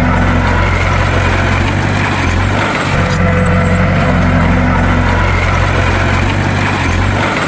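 Bulldozer's diesel engine running steadily at a low, even pitch, with no revving; the sound repeats itself about every four and a half seconds.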